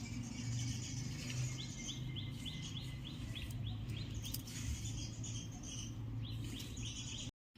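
Small birds chirping in quick repeated runs of short high notes, with a steady low hum beneath. The sound cuts out abruptly to silence just before the end.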